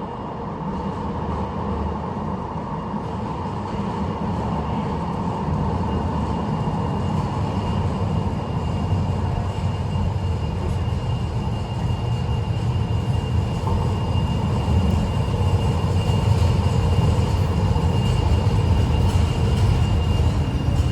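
Tram running on rails: a steady low rumble that slowly grows louder, with a faint steady whine above it.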